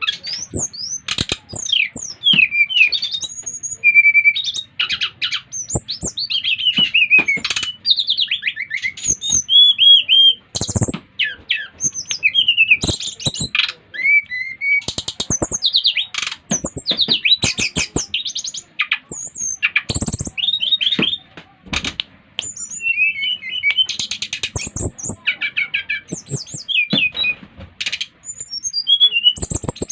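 Sikatan rimba dada coklat (brown-chested jungle flycatcher) singing hard and without pause. It pours out a fast, varied stream of short whistles, trills and sliding notes mixed with sharp clicking chatter.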